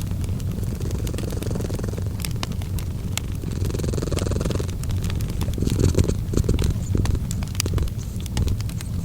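A cat purring in a steady low rumble, blended with the crackling of a fireplace fire: scattered sharp pops and clicks throughout.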